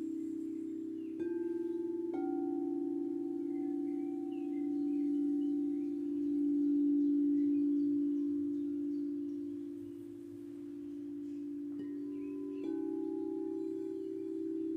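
Singing bowls ringing in long, low, wavering tones, struck afresh four times (about a second in, at two seconds, and twice near the end). Faint bird chirps sound above them.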